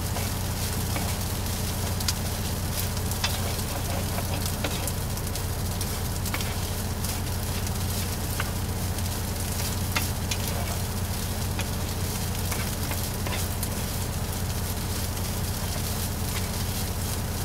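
Chorizo sizzling in a frying pan, with scattered sharp crackles and pops. A steady low hum runs underneath.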